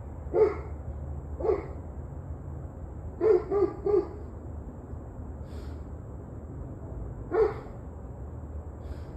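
A dog barking: single barks and a quick run of three, with gaps of a few seconds between them, over a steady low rumble.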